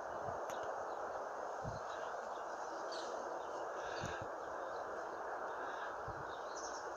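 Outdoor morning ambience: a steady hiss with a few faint, short bird chirps and occasional low thumps.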